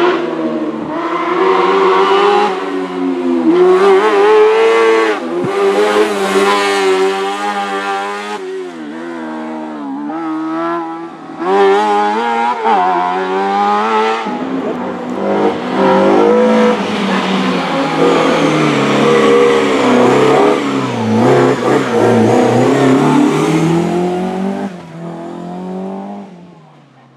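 Competition cars on a slalom course, engines revving hard and rising and falling in pitch through gear changes, several passes cut one after another. The sound fades out near the end.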